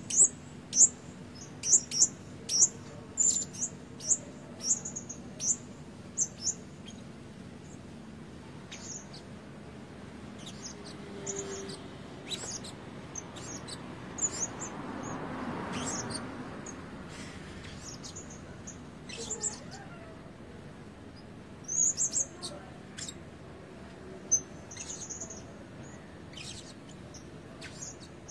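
Blue-crowned hanging parrot, a young male not yet in full red-breast plumage, giving short, high, sharp calls. They come about twice a second for the first several seconds, then more sparsely, with a quick cluster a little past the middle.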